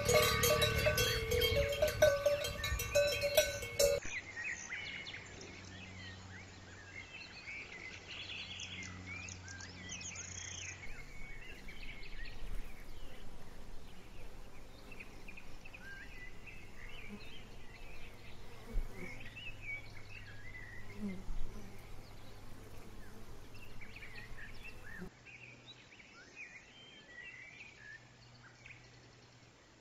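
A cowbell on a grazing cow's collar clanking and ringing irregularly as the cow moves its head, loud for about the first four seconds. It then stops abruptly, leaving faint outdoor background with scattered high chirps.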